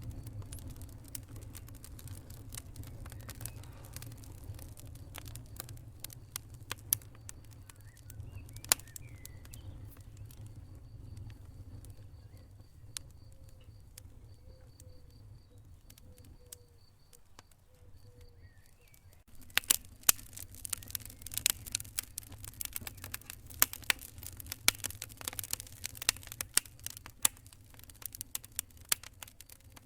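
Wood fire crackling: scattered sharp pops over a low rumble of flame, turning to a dense run of louder, brighter crackles and snaps from about two-thirds of the way in.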